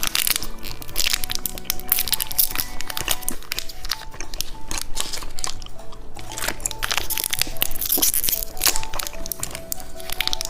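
Plastic candy wrappers and packaging crinkling and crackling as they are handled, in many quick irregular crackles, over background music.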